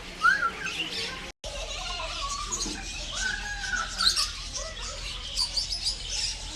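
Many aviary birds chirping and squeaking at once, a dense mix of short high calls. The sound drops out completely for a moment about a second and a half in.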